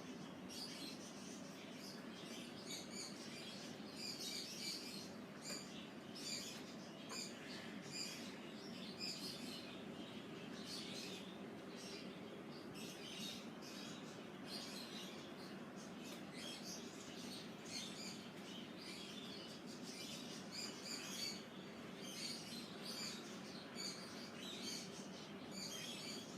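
Small birds chirping continuously, many short high calls overlapping in a busy chorus, over a steady low background hum.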